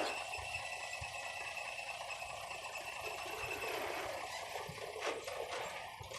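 Construction machinery running at a distance: a steady hiss with a thin high whine that stops about three and a half seconds in, and a few light clicks near the end.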